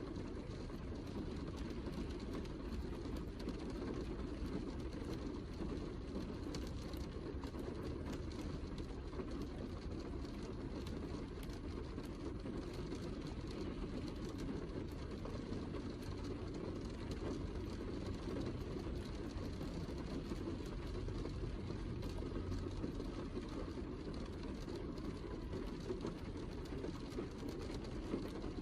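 Heavy rain falling steadily: an even, unbroken hiss that is heaviest in the low range, with scattered light drop ticks.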